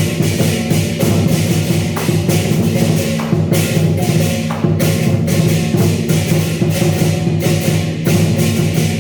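Chinese lion dance percussion: drum, clashing cymbals and gong played loudly in a fast, unbroken rhythm.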